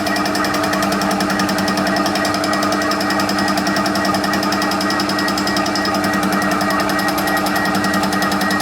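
TOS milling machine flycutting the warped face of an exhaust manifold: the single-point cutter strikes the metal in a rapid, even rhythm over the steady running hum of the mill. It is a light pass to bring the high-in-the-middle manifold flat again.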